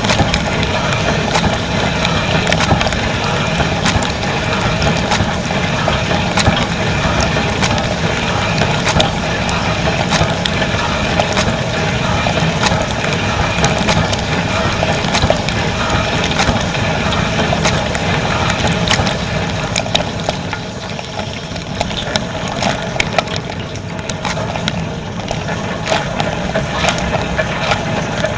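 Dishwasher running: water spraying and splashing over a steady pump hum, with many sharp ticks from the spray throughout.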